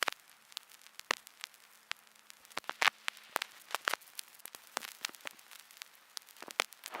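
Irregular sharp crackles and pops, a few each second, over a faint steady hum.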